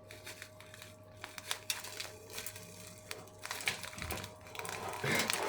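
Hands pressing sage and onion stuffing into a raw chicken: faint scattered crackling and crinkling that grows into denser, louder crackling near the end.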